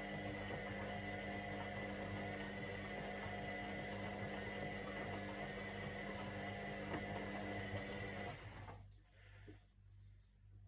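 Indesit IWC 71252 washing machine's drum motor running with a steady whine, then cutting out suddenly about eight seconds in, leaving only a faint low hum.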